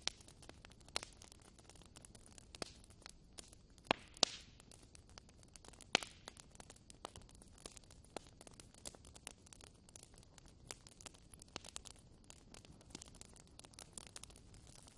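Wood fire crackling in a fireplace: irregular sharp pops and snaps over a soft steady hiss, with a few louder snaps about four and six seconds in.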